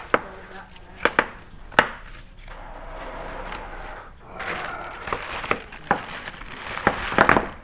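Coins being handled and set down on a counter: a series of sharp knocks and clacks, with a brief rustle about halfway through.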